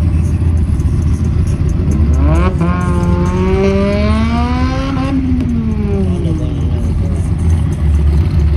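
A car engine revving: its pitch climbs for about three seconds, then drops away, over a steady low engine rumble.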